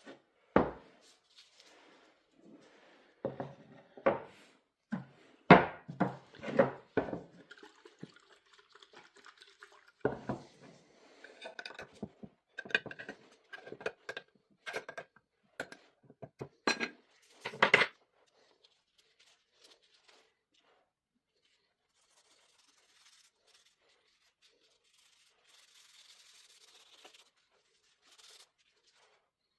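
Clinks and knocks of a metal stain can and tools being picked up and set down, a quick series over the first eighteen seconds or so. Then mostly quiet, with faint rubbing near the end.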